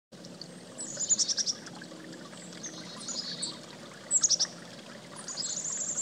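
Small birds chirping, in short runs of quick high notes repeated several times, over a steady background hiss.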